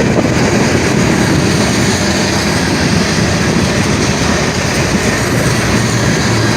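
A freight train's cars rolling past on the rails at close range, a steady loud rumble of wheels on track.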